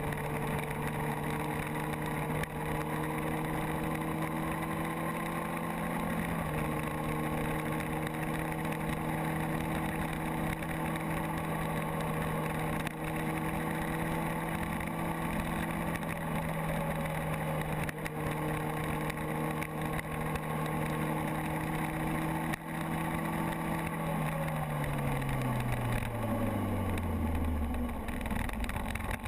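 Motorcycle engine running at a steady cruising speed under a rush of wind noise, dipping slightly in pitch about six seconds in. Near the end its pitch falls steadily as the bike slows down.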